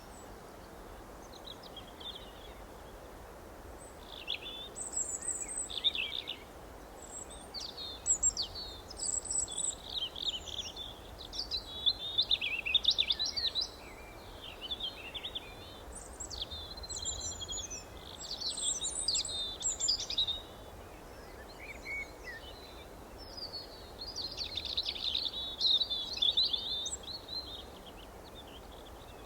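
Several songbirds chirping and trilling in short overlapping bouts, high-pitched calls coming and going with brief lulls, over faint steady background hiss.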